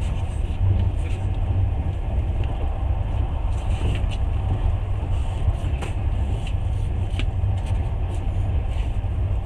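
Steady low rumble of a moving passenger train, heard from inside the carriage, with a few faint clicks scattered through it.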